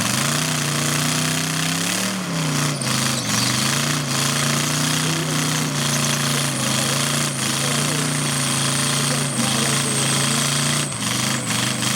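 Car engine held at high revs for a burnout, its pitch steady apart from a slight rise and fall about two seconds in, under a loud, continuous hiss.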